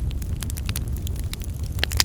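Campfire burning: wood crackling and popping irregularly, several pops a second, over a steady low rumble.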